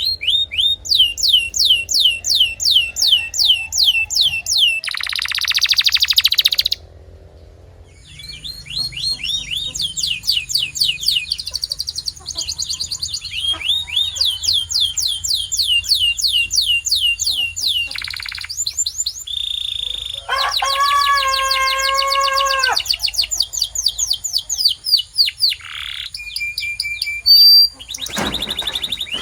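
Domestic canary singing: long runs of fast, repeated falling notes, broken by a short lull about seven seconds in, with a lower, fuller rolling phrase around twenty seconds in.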